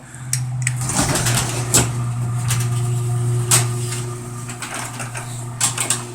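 Garage door operator running: a steady motor hum starts suddenly and holds, with clicks and rattles from the door moving along its track.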